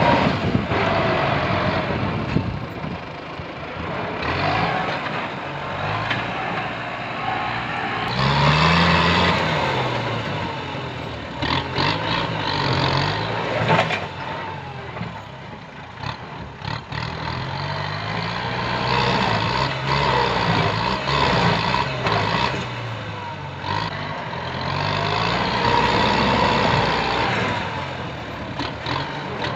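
Kubota M8540 tractor's diesel engine working under load, its pitch rising and falling over and over as it is throttled up and eased back, with scattered sharp cracks and knocks around the middle.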